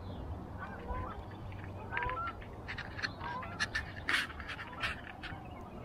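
Several short bird calls with small hooked rises in pitch, then from about two and a half seconds in a run of irregular sharp clicks and scratches from a hand handling the action camera.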